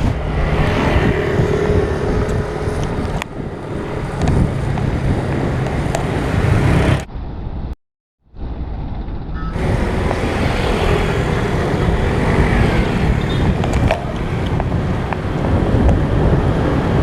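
Steady road traffic noise of passing cars and engines, heard from the road while riding. The sound drops out completely for about half a second a little before the middle.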